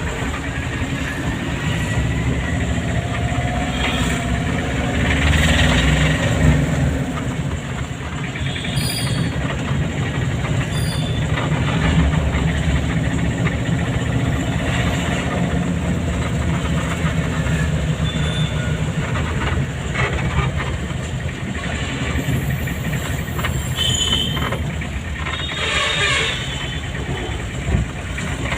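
Car driving on a town road: steady engine and road rumble, with a few short higher-pitched traffic sounds along the way.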